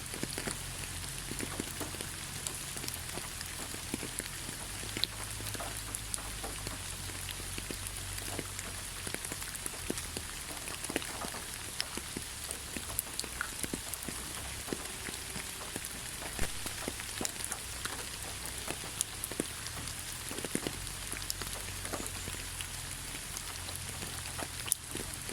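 Steady rain falling, with many single drops ticking close by over an even hiss and a low steady rumble underneath.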